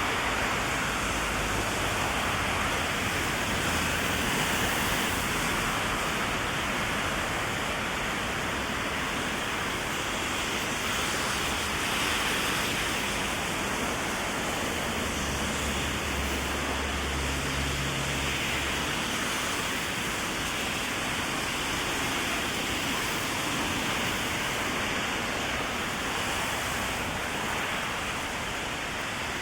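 Heavy rain falling steadily on an umbrella and the wet street, an even hiss. A low rumble rises briefly about halfway through.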